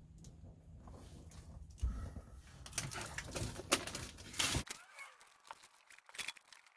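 Sound deadener mat being handled and pressed down on the truck's floor: irregular crinkling, crackling and clicking, busiest a few seconds in. A low steady hum underneath cuts off suddenly.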